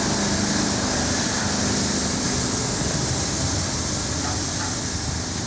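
Train passing at speed: a steady rush of wheels on the rails, with a locomotive engine's hum fading out in about the first second and the noise easing off near the end.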